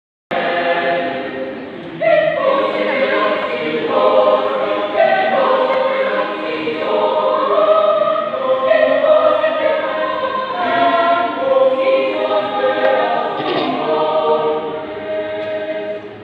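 Choir singing in several parts. It cuts in abruptly on a held chord, then moves through a flowing melody, with a short dip in level near the end.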